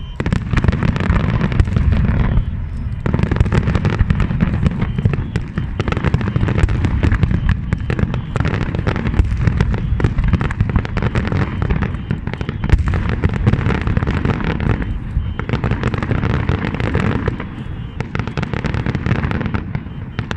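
Large fireworks display: a continuous barrage of booming bursts and dense crackling, with short lulls about two and a half seconds in and again in the later part.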